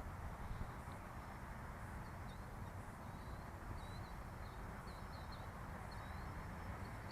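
A small bird chirping in a quick series of short, high calls over a faint, steady low outdoor rumble.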